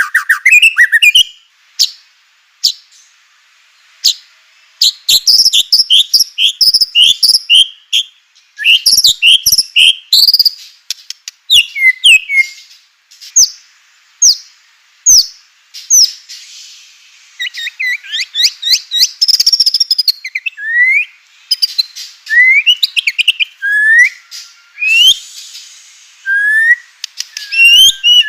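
White-rumped shama (murai batu) singing in loud bursts separated by short pauses: fast runs of sharp, clicking and rattling notes, and in the later part a string of rising whistled notes.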